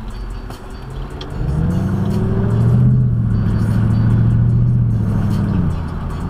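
Mercedes-Benz CLK 55 AMG's 5.4-litre V8 heard from inside the cabin, coming onto full throttle about a second and a half in and pulling hard with a steady low drone. It eases off shortly before the end.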